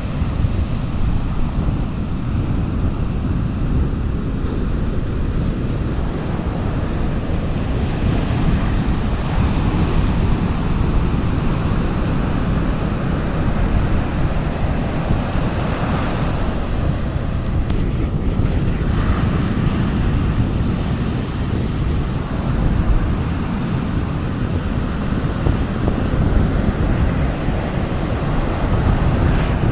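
Sea waves washing onto a beach, with wind rumbling on the microphone. The surf swells a little louder a few times.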